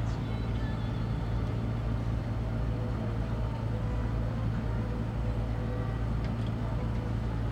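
Steady low drone of an engine running, with a constant low hum.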